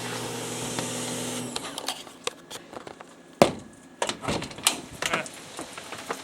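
A steady electrical hum cuts off about a second and a half in. Scattered clicks, knocks and clatter follow, with one sharp bang about three and a half seconds in.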